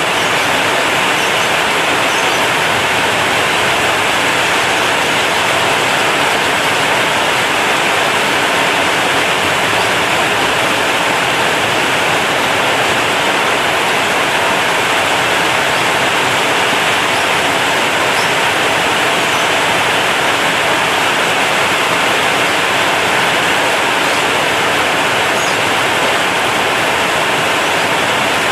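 Heavy rain falling steadily on a corrugated zinc roof, a dense, even hiss with faint scattered ticks.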